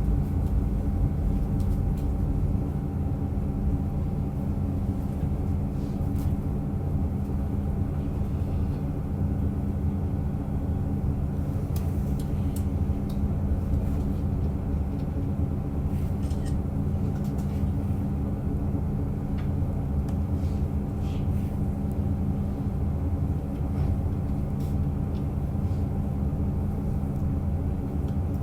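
Diesel railcar running steadily, heard from inside the car: a steady low engine and running drone with a few faint clicks scattered through it.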